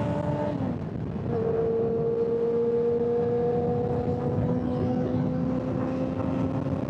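Honda CBR600's inline-four engine running at highway speed over wind rush. About half a second in, the revs drop and the sound dips briefly, then the engine pulls again with its pitch slowly rising.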